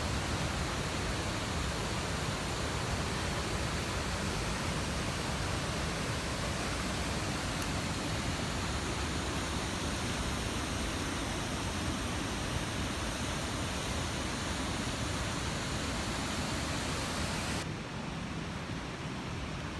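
Steady, dense rush of falling water, like a waterfall. Near the end it cuts abruptly to a quieter, duller rush.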